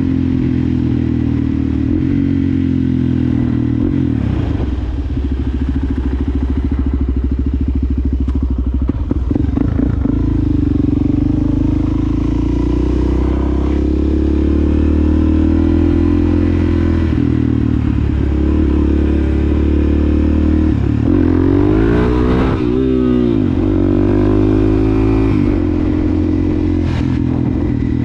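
Suzuki DRZ400SM's single-cylinder four-stroke engine running under way through a Yoshimura exhaust. It holds a steady pitch for long stretches, then the engine speed rises and falls sharply a few times about two-thirds of the way through.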